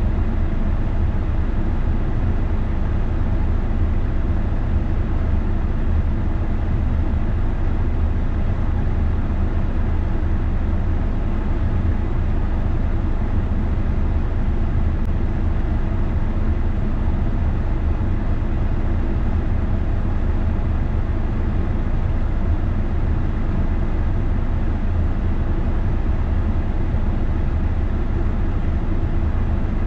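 Steady road and engine noise inside a moving car's cabin: a constant deep rumble with a faint low hum.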